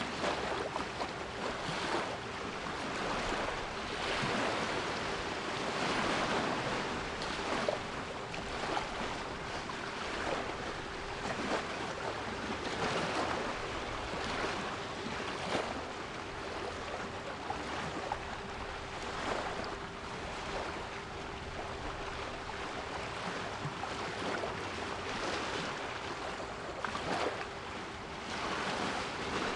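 Sea waves washing in, the surf noise swelling and easing every few seconds, with a steady 396 Hz pure tone held underneath.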